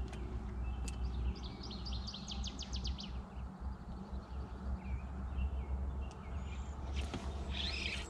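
A bird singing a quick trill of about a dozen short high notes about two seconds in, with more chirps near the end, over a steady low rumble.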